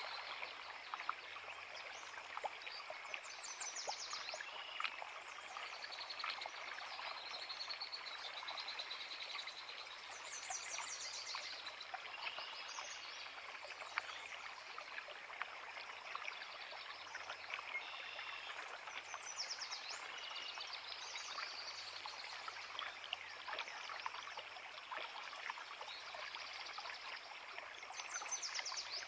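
Creek water babbling steadily, with songbirds singing over it in short high phrases and quick trills that come every few seconds.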